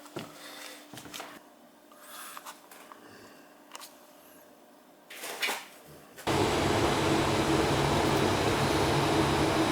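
A few faint clicks, then about six seconds in the steady running noise of a York 90+ gas furnace's fan sets in abruptly, a loud even rush with a low hum under it.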